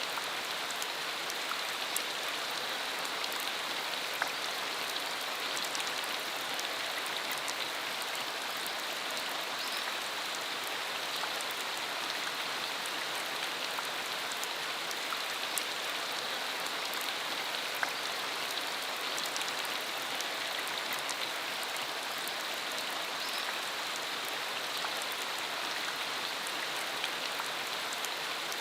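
Steady rain falling, an even hiss with scattered sharp ticks of individual drops striking.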